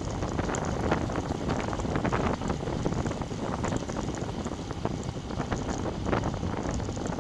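Wind buffeting the microphone of a bike-mounted action camera on a moving road bike: a dense, steady rush with scattered ticks and knocks through it.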